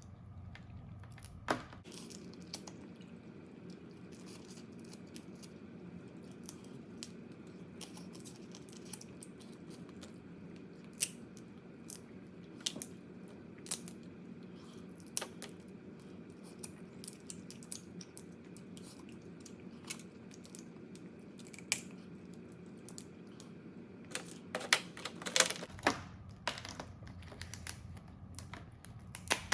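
Crab being eaten: hard shell cracking and snapping in scattered sharp clicks, with tearing and chewing between, and a quick run of louder cracks near the end. A steady low hum runs beneath most of it.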